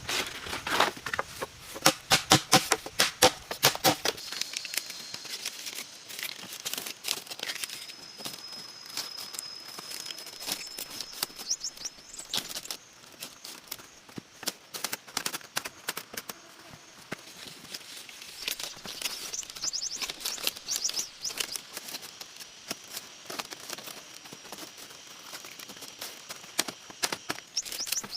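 Dense crackling and rustling, like dry leaves and twigs being handled, for the first few seconds, then lighter scattered crackles. A thin steady high tone sounds on and off in the background.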